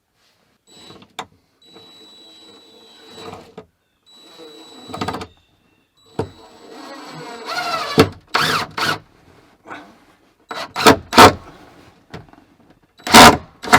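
Workshop handling noises: a run of knocks, clatters and scrapes, with several sharp, loud knocks in the second half.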